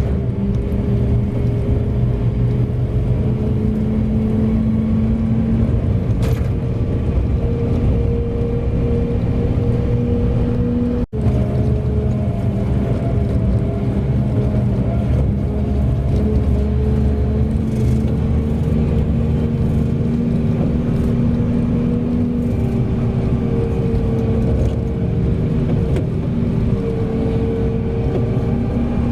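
Large mining haul truck's diesel engine running under load, a steady low drone whose pitch drifts up and down as engine speed changes, with a momentary break about eleven seconds in.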